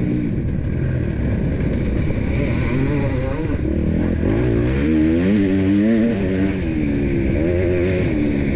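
KTM 250 SX-F four-stroke single-cylinder motocross engine revving up and dropping back again and again under throttle, with several rising sweeps in pitch.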